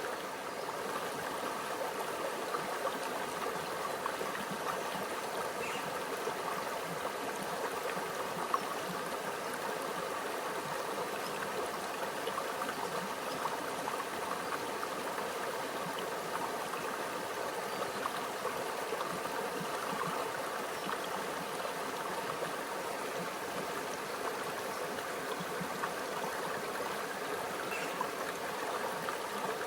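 Small stream flowing over rocks: a steady trickling and gurgling of water, with occasional small splashes.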